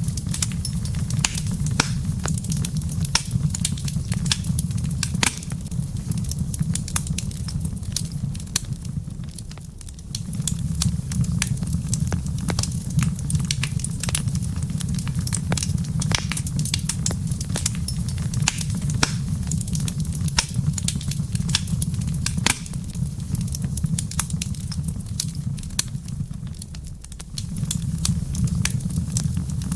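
Wood fire crackling in a fireplace: a steady low rumble of the flames with frequent sharp pops and snaps. The rumble dips briefly twice.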